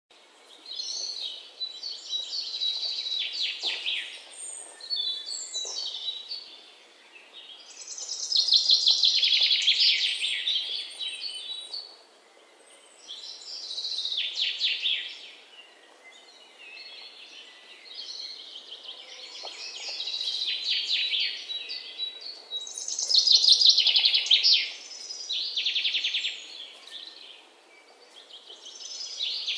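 Small birds singing: rapid, high chirping trills in phrases of one to three seconds, repeating every few seconds.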